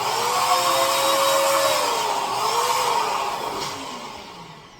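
Electric balloon inflator running, blowing air into a balloon, with a wavering whine over the rush of air. It dies away over the last second or so.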